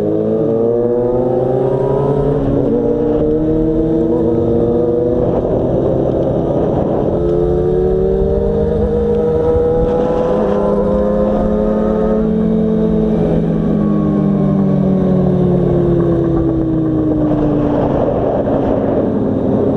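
A Yamaha FZ6's 600 cc inline-four engine pulls up through the gears: its pitch rises in several successive climbs, then falls steadily as the bike slows. A constant low wind rush sits underneath.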